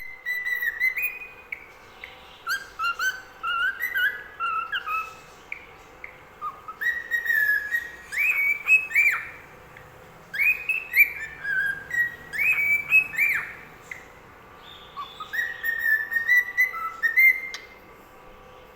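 Whistling in four short phrases of stepped, rising and falling notes, with brief pauses between them.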